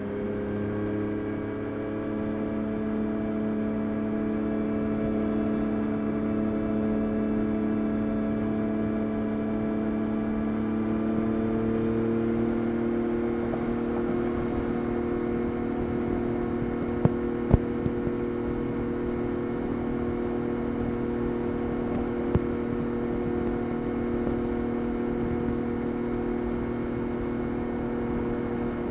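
Yamaha Tracer 9 GT+'s three-cylinder CP3 engine running through a Roadsitalia titanium exhaust while riding, its pitch climbing gently for about the first half then holding steady at a cruise. A few sharp clicks come a little past the middle and once more later.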